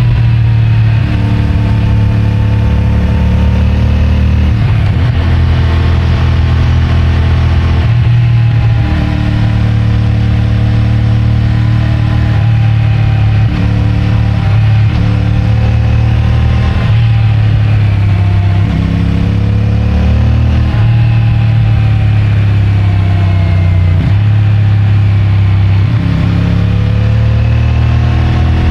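CFMOTO 450MT's 449 cc parallel-twin engine through its stock exhaust, pulling under throttle while riding. The engine note rises and falls, with short dips every few seconds.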